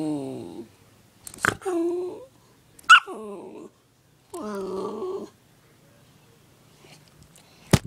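A dog making four drawn-out vocal sounds, each under about a second and bending in pitch, with a sharp click near the end.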